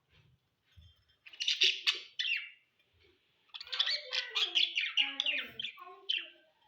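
Budgerigars chirping and chattering in two bursts, a short one just over a second in and a longer one from about halfway.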